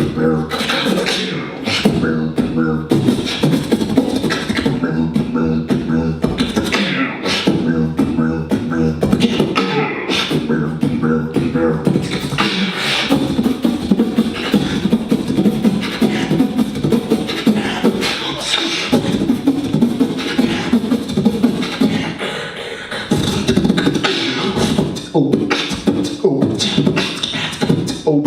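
Solo beatboxing by a performer into a microphone: a steady rhythm of vocal clicks and snares, with hummed pitched notes running under the beat in a repeating pattern.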